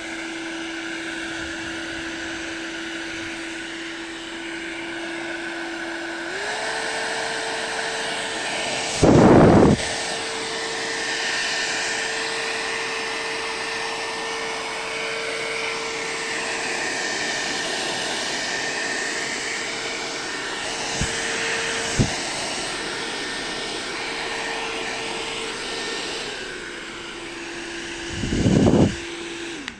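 Moser hair dryer running steadily, its whine stepping up in pitch about six seconds in and back down near the end. Twice there is a short, loud gust of rushing noise, and there are two sharp clicks in the later part.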